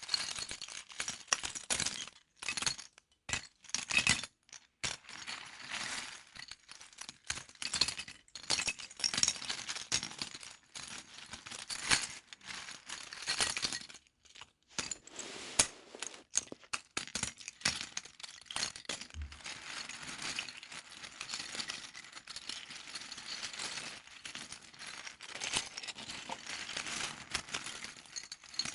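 Small plastic LEGO bricks clicking and rattling against each other as they are handled and picked through, an irregular run of quick clinks with short pauses.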